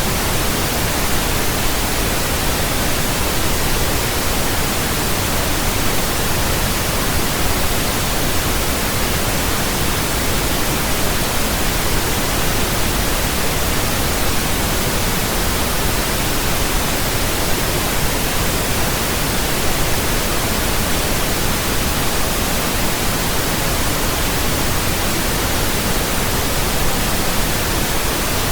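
Steady, unchanging pink noise: an even hiss with a deeper rumble than white noise.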